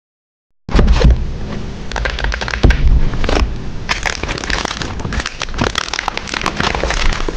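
Close-miked crackling and rustling of paper and stickers being handled, thick with small sharp clicks. It cuts in abruptly after a moment of dead silence at the start.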